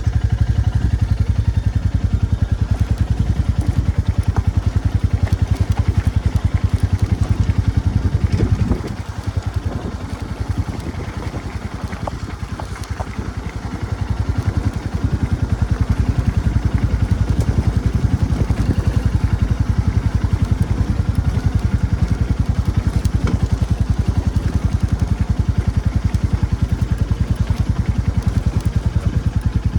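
Royal Enfield Classic 350's single-cylinder engine thumping as the motorcycle is ridden. It eases off about nine seconds in and picks up again around fourteen seconds.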